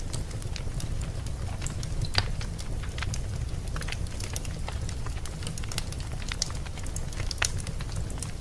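Wood fire burning in a fireplace: irregular crackles and pops over a steady low rumble of the flames, with one sharper pop about two seconds in.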